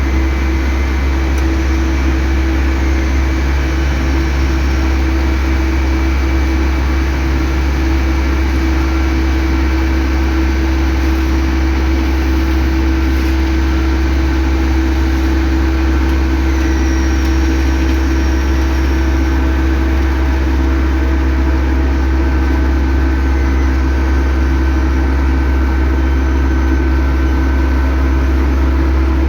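Heavy road-construction machinery engine running steadily at constant speed, a continuous hum and low rumble with no change in pitch.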